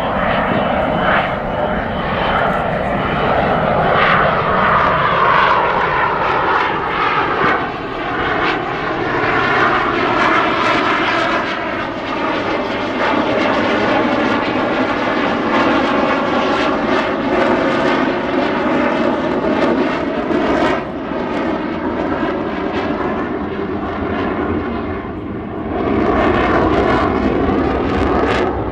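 A CF-18 Hornet's twin General Electric F404 turbofan engines, loud and continuous as the jet flies its display; the pitch slides down in the first several seconds as the jet passes and draws away, and the noise swells again near the end.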